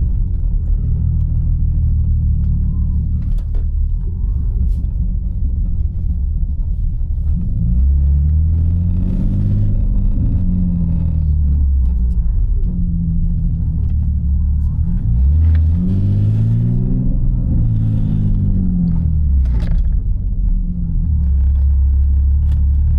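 Single-turbo BMW G80 M3's straight-six engine running under way, a low, steady drone whose pitch rises and falls a few times as the revs change.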